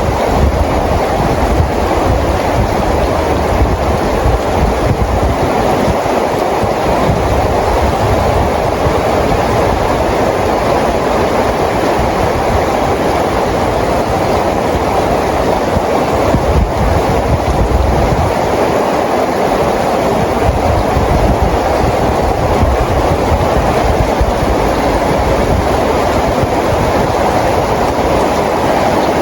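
Steady heavy rain falling, a dense even hiss with a low, uneven rumble beneath it.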